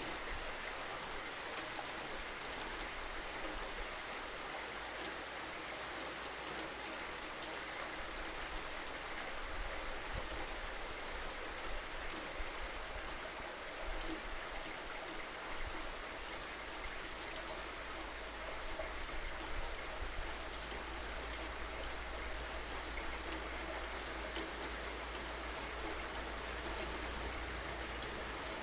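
Rain falling steadily: an even, dense patter with a low, constant rumble underneath.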